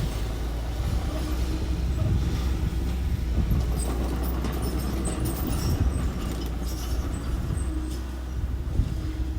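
Small construction machine's engine running steadily, with scattered metallic clinks and rattles in the middle.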